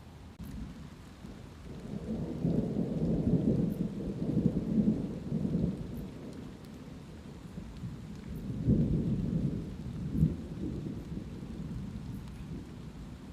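Thunder rumbling over steady light rain in two long rolls. The first builds about two seconds in and dies away by about six seconds; the second swells near the middle and has a brief sharper peak before fading back to the rain.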